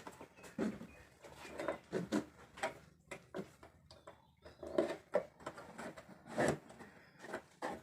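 Irregular light clicks and knocks of a metal queen guard plate being handled and fitted over the entrance of a wooden beehive box.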